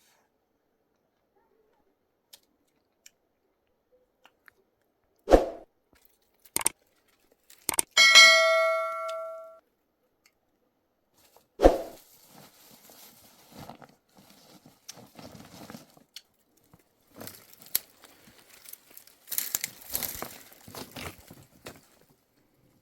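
A few sharp knocks, then a metal object struck once, ringing like a bell and dying away over about a second and a half. Another knock follows, then irregular clattering and rustling as things are handled.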